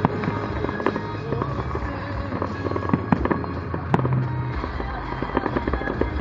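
Aerial firework shells bursting in the distance: several sharp bangs at uneven intervals, the loudest about one, three and four seconds in. Music plays steadily underneath from a radio.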